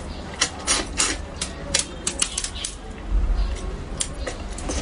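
Close-miked eating sounds of spicy braised fish: a quick, irregular run of wet clicks and smacks from chewing and mouth movement, with a low thud about three seconds in.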